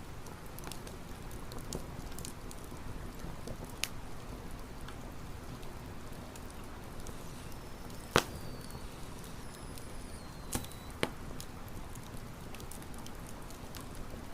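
Wood campfire crackling, with scattered small snaps and a sharp loud pop about eight seconds in, followed by two more pops a couple of seconds later. A faint high thin whistle slides slightly down in pitch over the middle few seconds.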